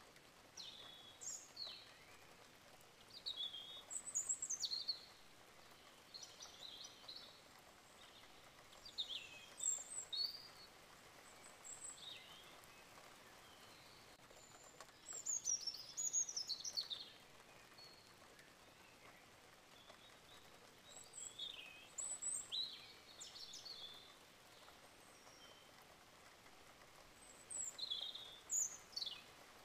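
Small birds chirping in short high phrases every few seconds, over a faint steady hiss.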